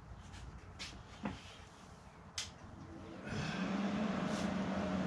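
A few light clicks and knocks of handling, then about three seconds in a welder is switched on and its steady electrical hum and cooling fan start up.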